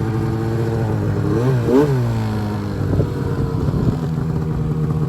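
Arctic Cat M1000 snowmobile's two-stroke twin engine running at steady revs, with two quick revs up and back down about a second and a half in, a single knock near the middle, and then a steadier, lower note.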